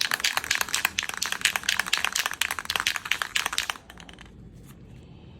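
Aerosol spray paint can being shaken hard, its mixing ball rattling in quick clicks; the rattling stops abruptly about three-quarters of the way through.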